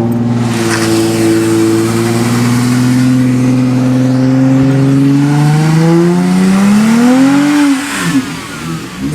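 A car's engine at full throttle, accelerating hard in one long pull, its pitch climbing steadily for about seven seconds. About eight seconds in the note bends back down and falls away sharply.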